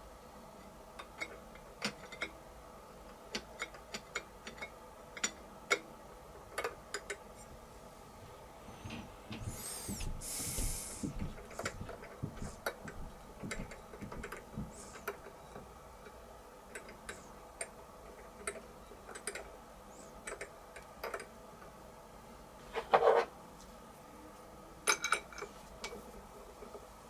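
Hand tapping #4-40 threads in aluminum plate: scattered light clicks and small knocks from the tap and tap wrench. A short rushing noise comes about ten seconds in, and a louder ringing metallic knock near the end.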